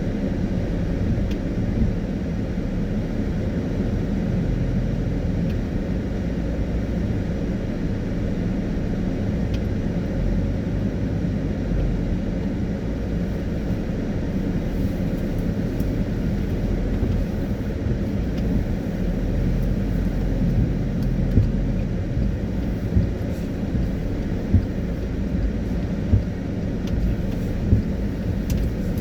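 Car driving on a rain-wet road: a steady low road and engine rumble, with a few short ticks in the second half.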